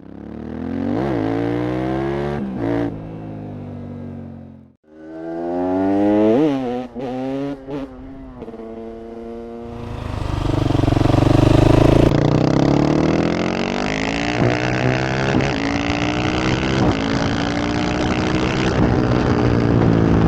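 KTM 690 SMC R's single-cylinder engine through a Leo Vince exhaust, revved in several sharp blips, cutting out briefly about five seconds in. From about halfway it runs on continuously under load, pitch climbing and falling again and again as the bike pulls through the gears.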